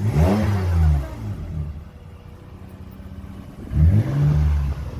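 A vehicle engine revving twice, about four seconds apart, its pitch rising and falling each time over about a second.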